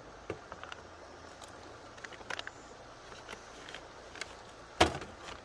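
Small clicks, crinkles and light knocks of a self-heating meal pouch and its heating pad being handled and set up, with one sharp knock near the end, over the steady hiss of a running creek.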